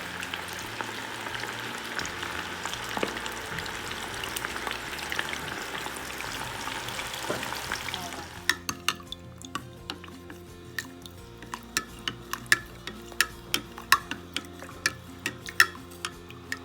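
Pieces of corn-flour-coated chicken breast frying in hot oil, a steady sizzle for about eight seconds. Then the sizzle drops away, leaving a series of irregular sharp pops and clicks, with faint background music underneath.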